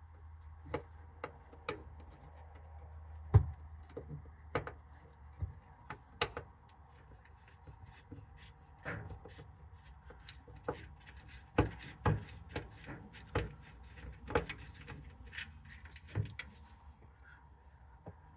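Irregular clicks and knocks of plastic fan-housing parts and screws being handled and unscrewed while a caravan roof-hatch exhaust fan is taken apart, with one sharper knock about three seconds in, over a low steady hum.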